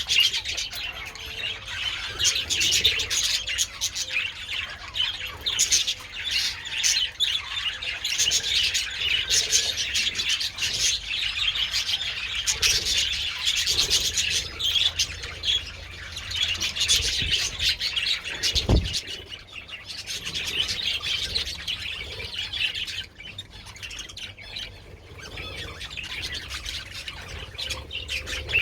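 A flock of budgerigars chattering and chirping together in a continuous, busy warble, with one low thump about two-thirds of the way through.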